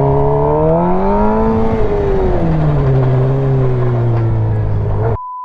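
A motor vehicle's engine running loudly, its pitch rising about a second in, easing back down after about two seconds, then holding steady. It cuts off suddenly just before the end.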